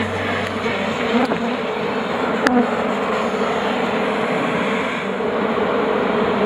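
A large colony of Africanized honeybees buzzing loudly and steadily, agitated after the hive has been disturbed.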